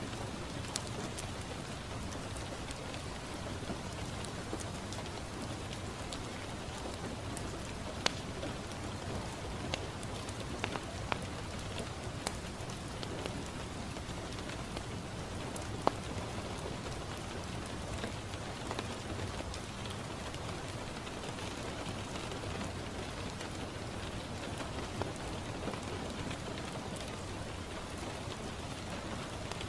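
Steady rain falling on a window pane, an even hiss, with scattered sharp ticks and pops through it, two of them louder, about a quarter and half of the way through.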